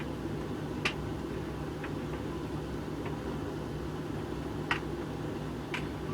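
Hoover VHV680C tumble dryer running steadily on a bone-dry cycle with a load of coloured clothes: a low motor hum and drum rumble, with a few light, irregular taps as the tumbling load knocks against the drum.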